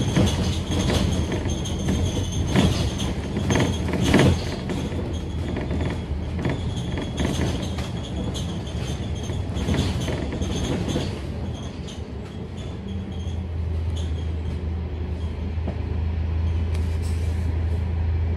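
Scania K310UD double-decker bus on the move, its engine running under a clatter of rattles and knocks from the body in the first half, then settling to a steadier low engine hum in the second half.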